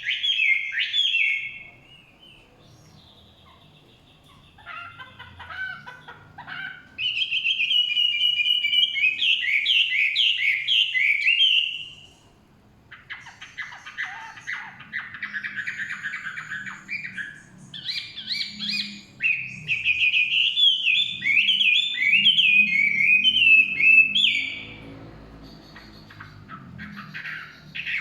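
Chinese hwamei singing: loud, varied phrases of rapid whistled notes, each phrase lasting a few seconds, separated by short pauses.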